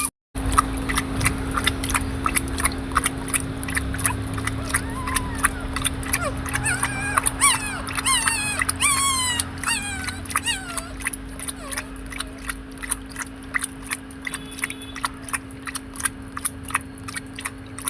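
Puppies whining in a cluster of short, high, rising-and-falling squeals about halfway through, over a steady run of sharp clicks and a constant low hum.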